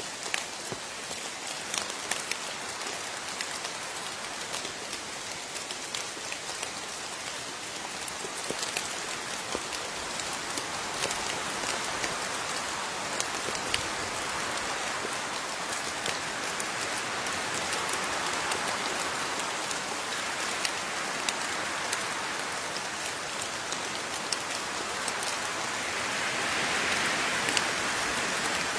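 Steady rain with individual water drops pattering sharply over a constant hiss; the downpour swells somewhat heavier near the end.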